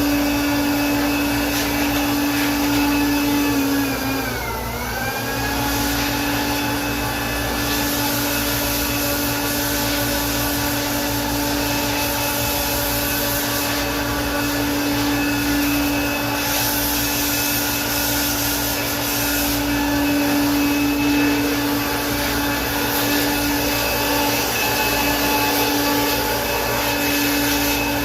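Electric air blower running steadily, blowing dust out of a fridge condenser: a steady motor whine over a rush of air. About four seconds in, its pitch sags briefly and then recovers.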